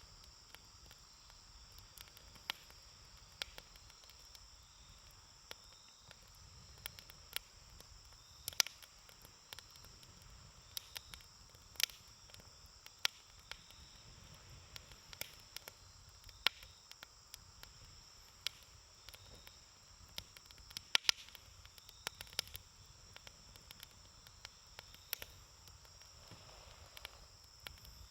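Wood campfire crackling, with irregular sharp pops and snaps, a few louder ones standing out. A steady high-pitched hiss runs underneath.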